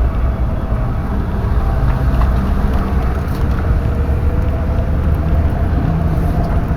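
Steady car engine and road noise heard from inside a moving car's cabin.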